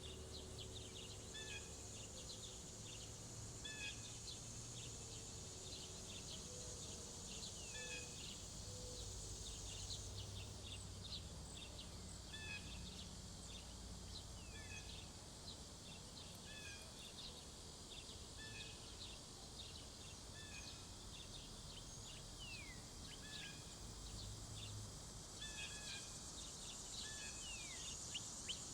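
Summer bird-feeder ambience: a steady high insect drone, with a bird repeating a short call every second or two and other small birds chipping now and then. The insect drone fades about ten seconds in and swells again near the end.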